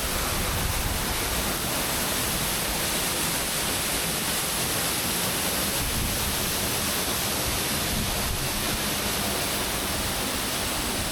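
Wankaroo Falls waterfall heard close up: a steady, even rush of falling water.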